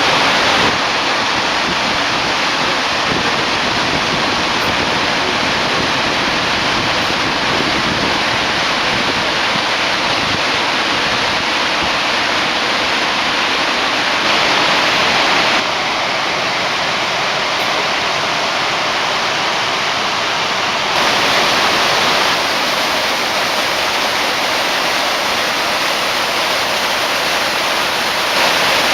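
Gullfoss waterfall: a steady, loud roar of falling water, with a few sudden small shifts in level.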